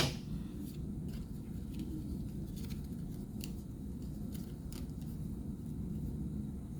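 Tarot cards being handled and laid out: a scatter of soft, sharp card clicks and snaps at uneven intervals over a steady low room hum.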